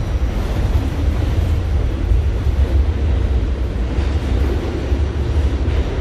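Steady low rumble inside an R68A New York City subway car as it gets moving again after being held, its traction motors and wheels running on the track.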